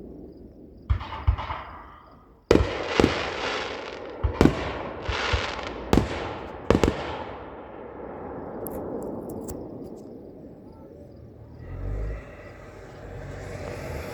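Fireworks display: a string of sharp bangs in the first seven seconds, each trailing off slowly, then a few faint crackles and a low thud near the end.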